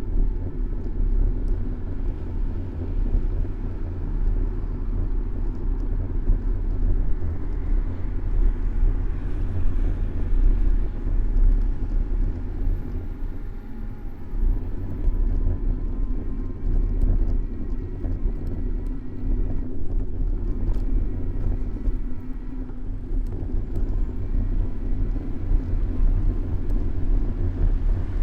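City street traffic heard from a moving bicycle: a steady low rumble of cars and wind on the microphone, with faint engine tones rising and falling as vehicles pass in the middle.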